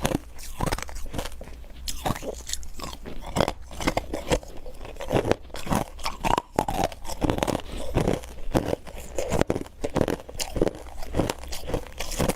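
Refrozen powdery ice being chewed close to the microphone: soft, crunchy bites and chews in quick succession, about three crunches a second.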